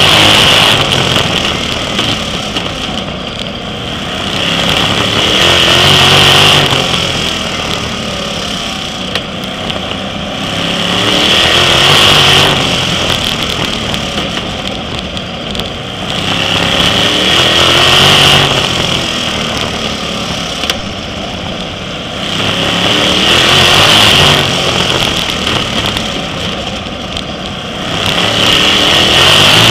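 A sprint car's engine running at racing speed around a short oval. It swells to full throttle about every six seconds and eases off in between, lap after lap.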